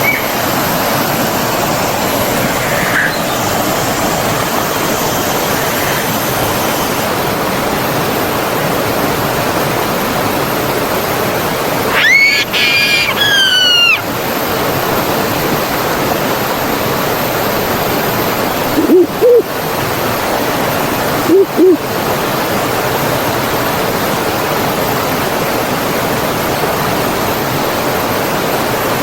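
Stream water running steadily. A bird calls once for about two seconds in the middle, and two short, low-pitched double calls come a little later.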